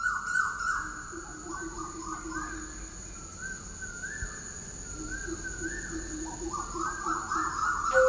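Birds chirping in quick, repeated calls that rise and fall, over a steady thin high-pitched tone.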